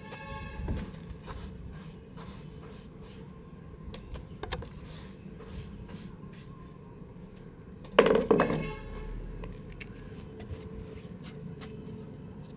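Dry mud crumbling in a pot: a scatter of small crackles and crumbling clicks, with one much louder crunch or thump about eight seconds in.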